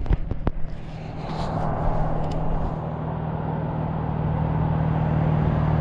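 A motor's steady drone, slowly growing louder as it comes closer, with a few sharp clicks in the first half second.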